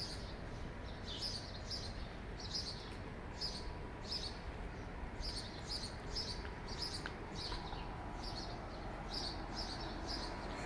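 Small birds chirping, short high chirps coming two or three a second, often in pairs, over a steady low background hum.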